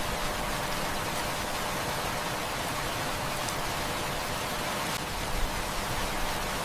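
Heavy rain falling steadily, an even hiss with an occasional faint tick.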